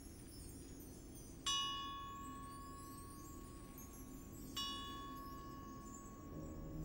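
Two struck bell-like metallic notes from a drum corps front ensemble, about three seconds apart, each ringing out and slowly fading over a faint low sustained tone. Low instruments begin to swell in near the end as the show's music opens.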